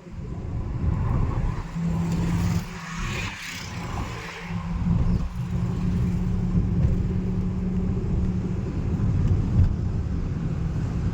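A car on the move: a steady low rumble of engine and road noise, with a brief swell of hiss in the middle that sounds like traffic passing.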